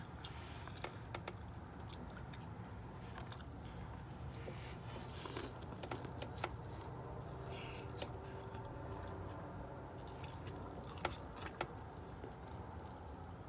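A person eating corn off the cob, chewing and biting, with scattered soft crunches and clicks over a steady low hum.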